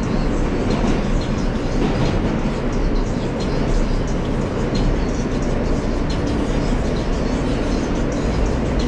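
Inside a moving New York City subway car: the steady rumble of the train running on the track, with many short high ticks and squeals from the wheels and rails.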